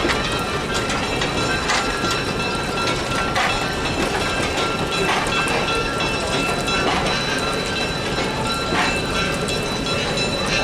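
A train running on the rails, with sharp clicks from the wheels every second or two and steady high-pitched tones over a constant rumble.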